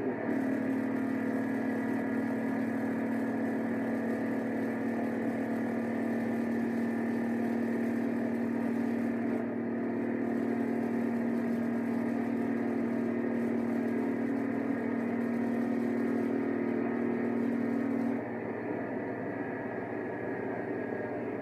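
Ferrari Dino 246 GT's V6 engine pulling hard under acceleration. There is a brief break right at the start, like a gear change, then a long steady pull. About three quarters of the way through the engine note drops away and the level falls, as if the driver has lifted off.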